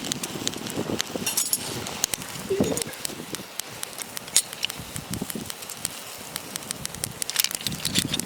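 Wood campfire crackling with frequent sharp, irregular pops, over soft, uneven rustling.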